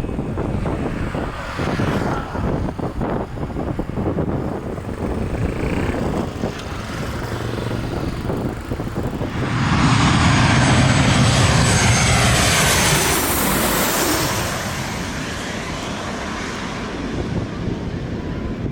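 Gusty wind buffeting the microphone, then an airliner passes close by about nine seconds in: its engines swell to a loud rush with a falling whine, and the sound fades a few seconds later.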